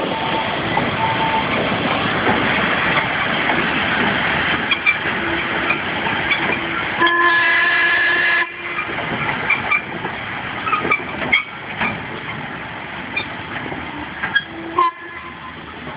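Steam locomotive hissing and working, its whistle sounding once for about a second and a half near the middle and cutting off sharply, followed by quieter running with scattered clanks and knocks.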